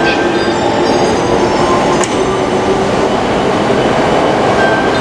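E655 series electric train moving slowly along a station platform: a steady rumble of its wheels and running gear with a faint held hum.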